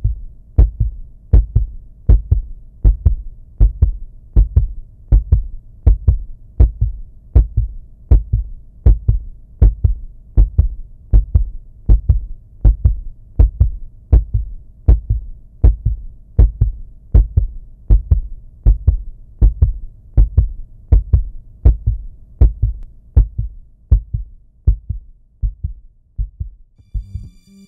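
Heartbeat sound effect: a low double thump, lub-dub, repeating steadily about once a second.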